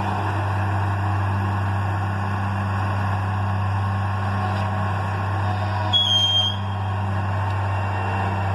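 Loram shoulder ballast cleaner train running steadily, its diesel engine giving a low hum under a broad rumble. A brief high-pitched squeal about six seconds in.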